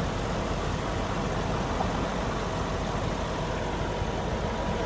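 A car engine idling steadily under a constant hiss, with a faint steady whine.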